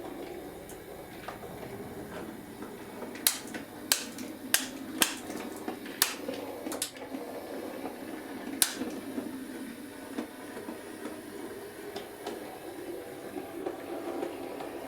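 Bachmann Class 03 model shunter running slowly along OO-gauge track, its small motor giving a steady hum. Sharp clicks come at irregular intervals between about three and nine seconds in.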